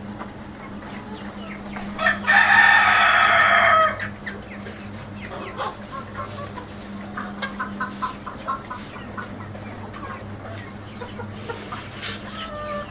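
A rooster crowing once, loud and nearly two seconds long, about two seconds in, with chickens clucking softly before and after.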